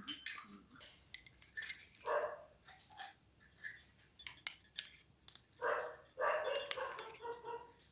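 A dog barking several times in the background, a single bark about two seconds in and a run of barks near the end, with light clinks of small metal utensils in between.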